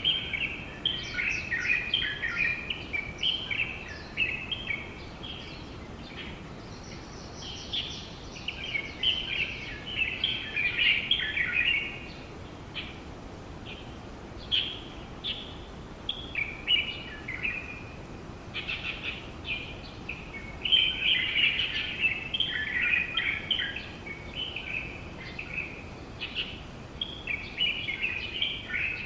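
Several small birds chirping and calling in quick chattering flurries, with short lulls between bouts.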